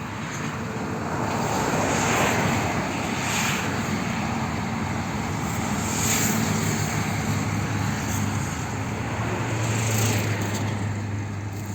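A vehicle's engine running with a steady low hum, under rushing noise that swells and fades about four times.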